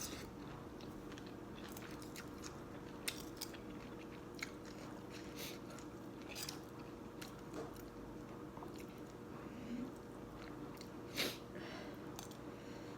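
A person chewing and eating noodles, with a dozen or so short, scattered mouth and utensil sounds, the loudest about eleven seconds in, over a faint steady hum.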